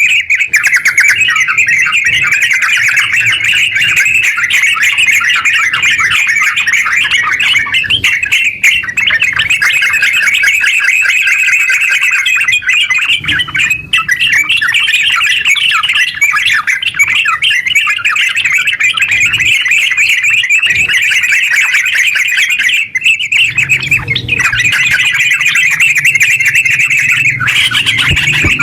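Yellow-vented bulbul (trucukan) singing a long, almost unbroken run of rapid, chattering notes, with a couple of short breaks.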